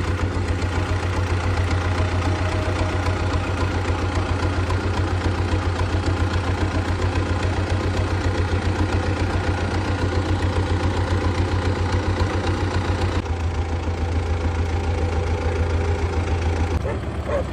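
A heavy engine running steadily at a fast, even pulse, typical of the machinery used to lift concrete rings into place. Its higher tones drop away about 13 seconds in.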